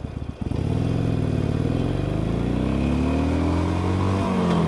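Cruiser motorcycle engine pulling away from idle: the engine note climbs steadily for about three seconds under acceleration, then drops sharply near the end as it shifts up.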